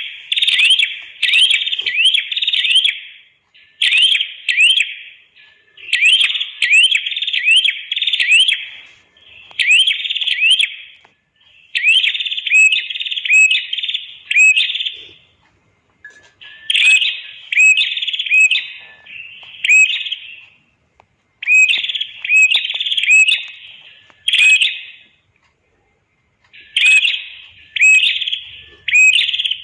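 Red-headed prenjak (prenjak kepala merah) singing: loud, rapid bursts of sharp, sweeping chirps, three to six notes at a time, repeated with short breaks and one longer pause near the end.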